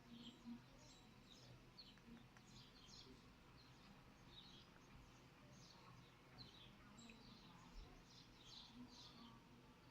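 Faint birdsong: small birds chirping in short, high, repeated calls, several a second, over a quiet background.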